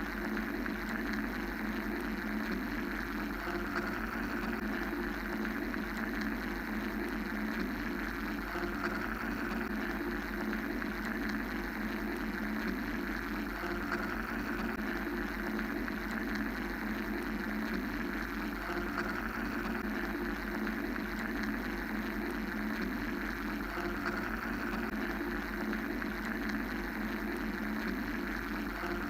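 Steady mechanical white-noise drone, a hum with a hiss over it that swells and eases gently every several seconds.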